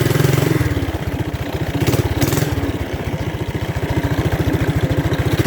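Mini bike's small single-cylinder engine running at a steady, low speed, its separate firing pulses plainly heard. A brief hiss comes about two seconds in.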